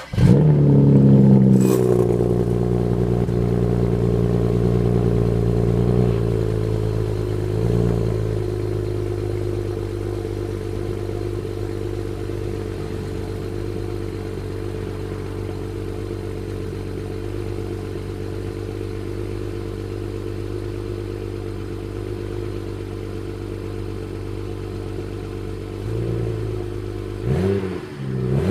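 BMW 335i's N54 twin-turbo inline-six on its stock exhaust starting up, flaring and then settling from a raised start-up idle to a steady idle. Near the end the throttle is blipped a couple of times, the revs rising and falling.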